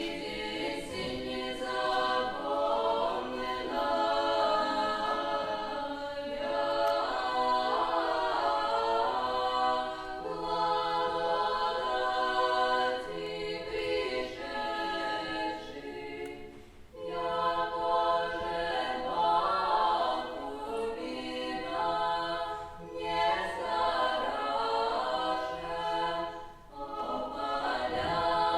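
A choir singing Old Russian music a cappella, in sustained, slowly moving chords, with brief breaks between phrases about two-thirds of the way through and near the end.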